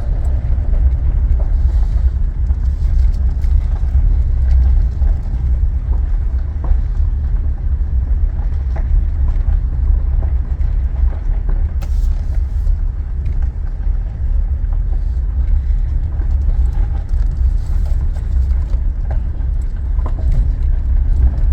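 Road noise inside a moving car: a steady low rumble of engine and tyres on the road.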